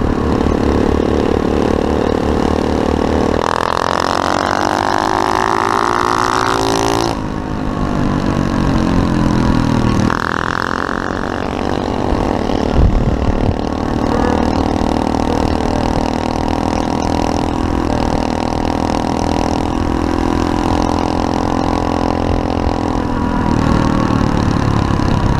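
SSR 125cc pit bike's single-cylinder four-stroke engine running under way. Its pitch climbs for a few seconds and then drops suddenly as it shifts up. A second shorter climb and drop follows about ten seconds in, and it then runs at a steadier pitch.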